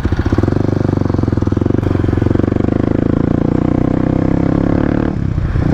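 Single-cylinder four-stroke supermoto engine running under throttle as the bike rides along, a steady run of exhaust pulses. Near the end it eases off briefly, then pulls again.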